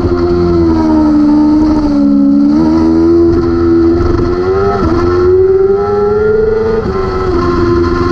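600-class superbike engine at racing speed, its note falling and rising with throttle and gear changes. There are sudden steps in pitch about a third of the way in, near the middle and near the end.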